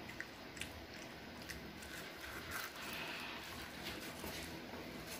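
A child chewing crisp seaweed snack sheets, with scattered small crackling crunches over a low steady hum.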